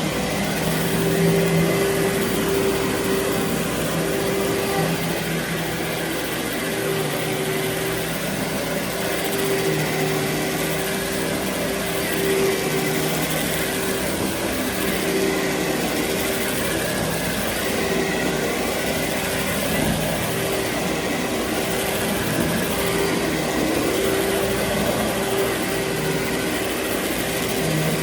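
Carpet vacuum running steadily: a motor hum with a higher tone that swells and fades as the head is worked back and forth, over a constant rush of air.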